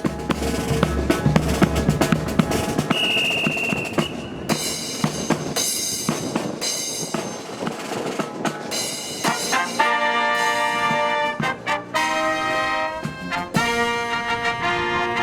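Marching brass band playing a fanfare: drums alone for the first few seconds, then trumpets and trombones come in, swelling into loud held brass chords from about nine seconds in.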